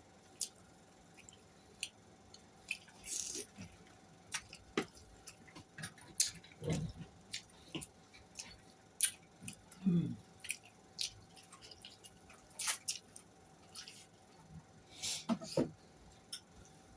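A person eating close to the microphone: irregular wet mouth clicks and smacks of chewing, with a few short, lower swallowing or mouth sounds in between.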